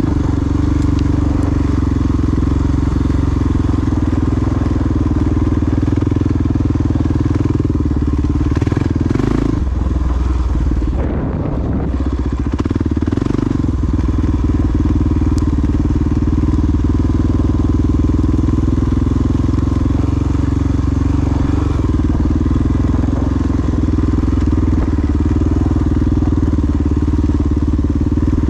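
Dual-sport motorcycle engine running steadily under way. The engine note drops briefly about ten seconds in, then picks up again.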